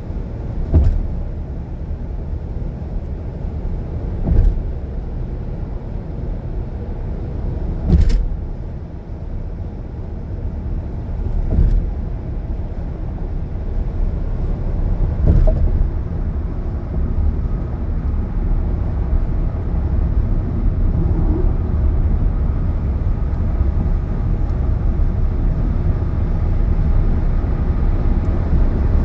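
Car road noise at highway speed: a steady low rumble. In the first half it is broken by a short thump about every three and a half seconds, five in all, and it grows slightly louder toward the end.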